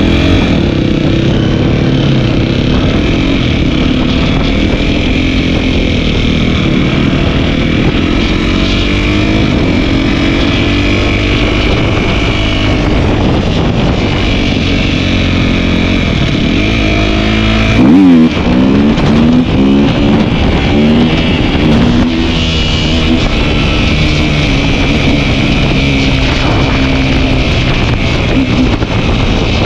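Dirt bike engine running on the move, its pitch rising and falling with the throttle. About eighteen seconds in the note dips sharply and climbs again, louder, as the engine revs back up.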